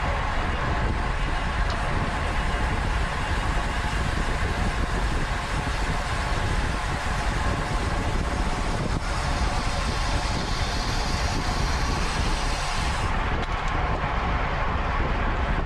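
Wind buffeting the microphone of a camera on a road bike ridden at race speed, with the rushing of tyres and drivetrain underneath. A steady, unbroken noise whose hiss turns duller about thirteen seconds in.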